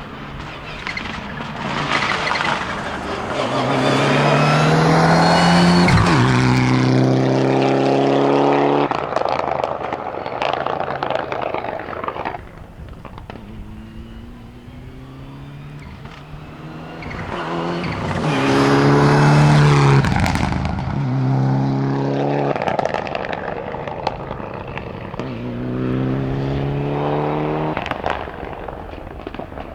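Mitsubishi Lancer Evo rally car's turbocharged four-cylinder engine driven flat out, the note climbing through the revs and stepping down at each gear change. It comes loudest twice, about five and about nineteen seconds in, as the car goes by.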